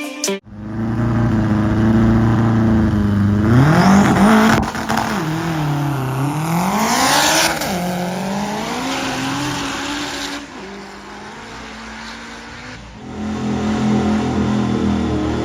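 Car engine running, then revved up and down several times from about four seconds in, its pitch rising and falling, before easing off and picking up again near the end.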